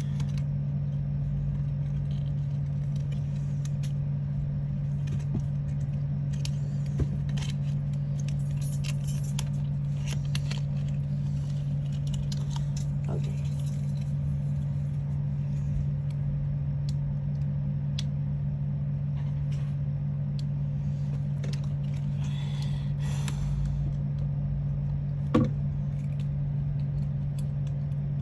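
A steady low hum, with scattered small clicks, taps and rustles of small craft pieces being handled; a sharper click comes about seven seconds in, and a louder one near the end.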